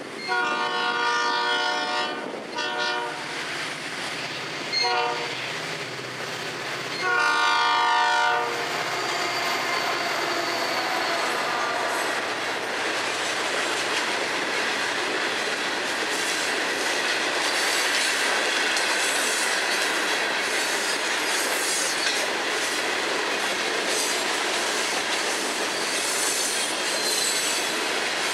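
Freight locomotive air horn sounding four blasts for a grade crossing, two long ones with two shorter ones between. Then a long train of freight cars rolls steadily past, with clickety-clack of wheels over rail joints and a thin wheel squeal now and then.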